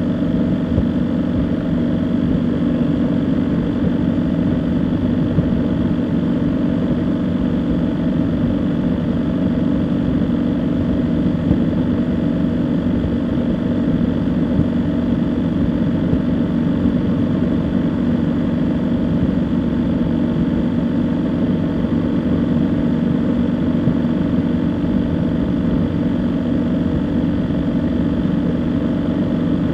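A vehicle engine running steadily: a constant low drone that does not change in pitch or level.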